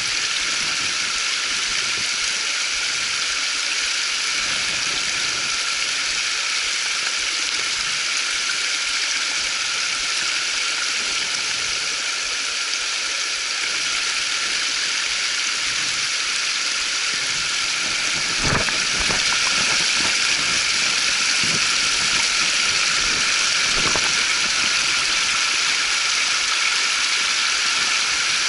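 Creek water rushing steadily, with a short knock about two-thirds of the way through and a fainter one a few seconds later.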